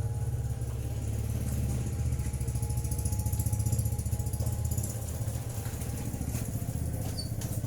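A small engine running steadily at idle, with a fast, even low pulsing.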